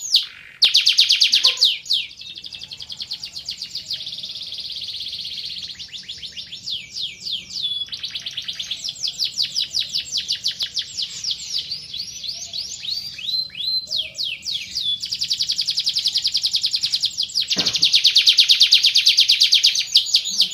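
Van Hesterling canary singing a long, unbroken song of fast trills and rolls, made of rapidly repeated falling notes that change in speed and pitch from phrase to phrase. It is loudest in a fast, bright trill near the end.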